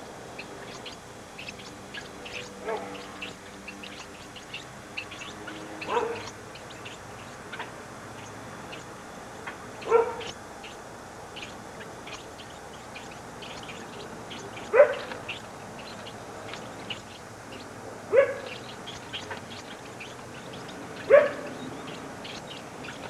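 Short animal calls, each a quick upward yelp, five times at intervals of three to four seconds, over faint, rapid high chirping.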